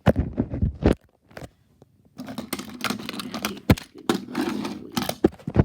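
Plush toys being handled and struck: rough fabric rustling and crumpling with several sharp knocks. It comes in two bouts, a short one at the start and a longer one from about two seconds in.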